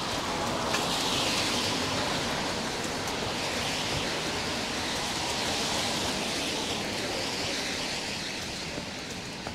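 Steady rushing hiss of rain and wet-street ambience. It swells about a second in and eases slightly toward the end.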